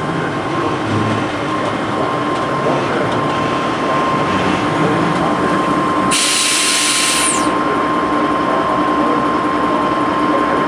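Railway locomotive running nearby with a steady whine. About six seconds in, a loud hiss bursts out for about a second and a half, then cuts off.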